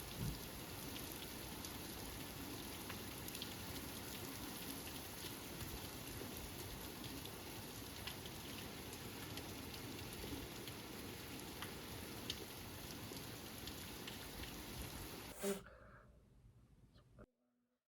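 Steady rain falling, with individual drops ticking close by over the even hiss. Near the end it cuts off abruptly, leaving faint room tone.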